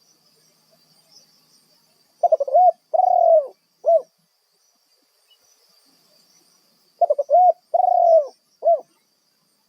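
Spotted dove cooing its call twice, about five seconds apart. Each phrase is a quick stuttering rising note, then a long falling coo, then a short final coo.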